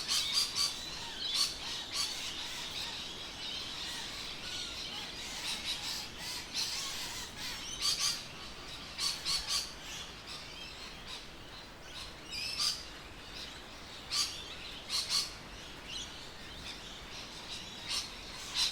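Birds chirping and calling: a dense chorus of short high calls throughout, with louder sharp calls every second or so.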